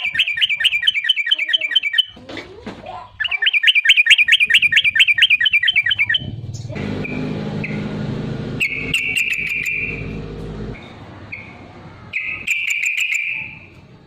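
Yellow-vented bulbul (trucukan) singing: fast runs of repeated chattering notes at about five a second, then shorter whistled phrases. A low steady hum sits under the song in the middle of the stretch.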